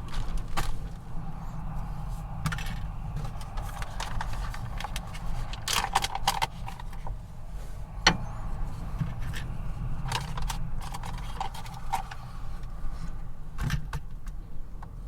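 Small items clinking and rattling now and then as they are handled, one sharp clack about eight seconds in, over a steady low rumble of strong wind buffeting the truck.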